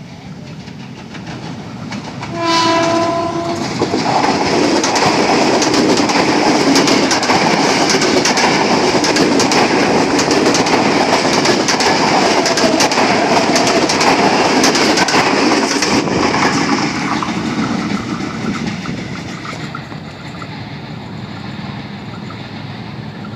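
Ex-Tokyo Metro 6000 series electric commuter train gives one short horn blast about two and a half seconds in. It then passes close by with a loud steady rush and wheels clattering over the rail joints, and the sound fades away after about fifteen seconds.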